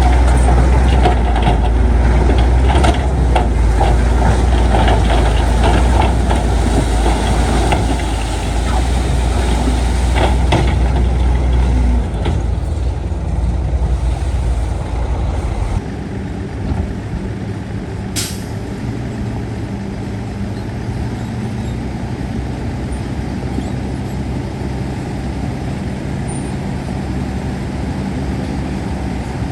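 Heavy diesel earthmoving machinery working: a loud, low engine drone with scattered clanks and knocks for the first eleven seconds or so. After about sixteen seconds it drops to a steadier, quieter engine note, with one short, sharp air hiss just after that.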